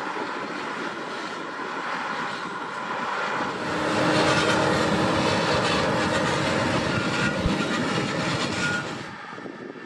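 A large farm tractor's diesel engine running under load, a steady drone that grows louder about three and a half seconds in and drops off near the end.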